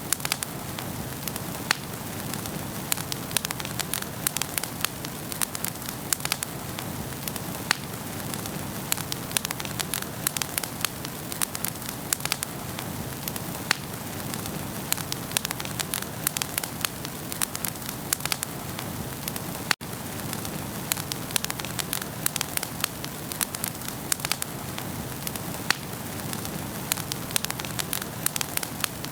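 Wood fire crackling in a fireplace: a steady low hiss of the flames with many sharp pops and snaps at irregular intervals. The sound drops out for an instant about twenty seconds in.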